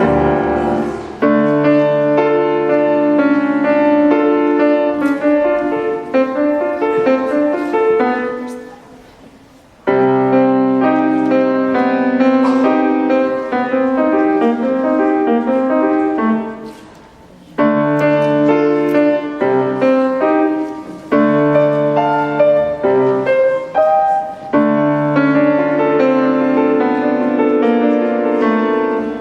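Piano playing a slow piece in phrases of held chords over a low bass line, with the sound dying away between phrases about nine and seventeen seconds in.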